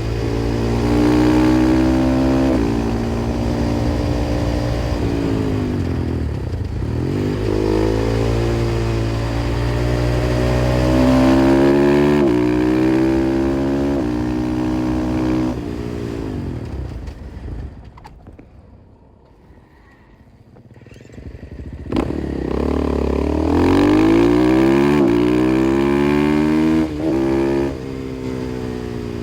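KTM 500 EXC-F's single-cylinder four-stroke engine through an FMF exhaust, accelerating through the gears, its pitch climbing and dropping back at each shift and falling as it backs off. About two-thirds of the way in it fades almost away for a few seconds, then a sharp pop, and it revs up through the gears again.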